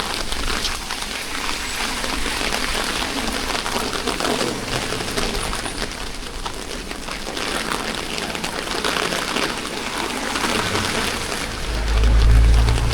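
Steady rain falling, a dense patter of drops all through. A low rumble swells up near the end.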